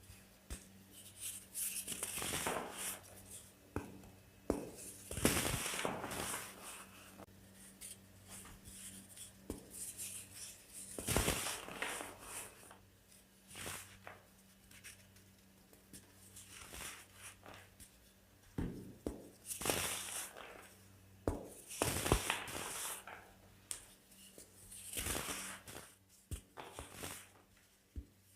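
Baking soda being crushed and crumbled: a series of crunchy, crumbly bursts, each a second or two long, with sharp cracks in between.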